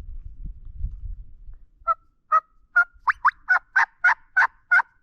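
Wild turkey yelping: a series of about ten short, loud yelps that come faster as it goes on, starting about two seconds in. Before the yelps, a low rumbling noise.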